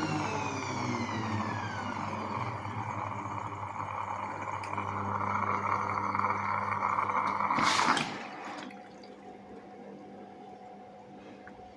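Siemens front-load washing machine: a whine falling in pitch over the first two seconds as the drum slows, with water rushing and a steady hum that swell, then stop abruptly with a short rattle about eight seconds in, leaving a faint steady tone.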